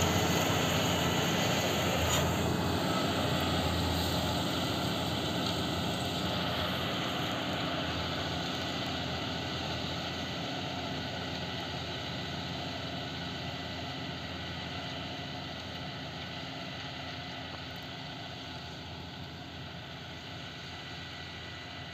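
Claas Arion 620 tractor's six-cylinder diesel engine running steadily under load as it pulls a plough, growing gradually fainter.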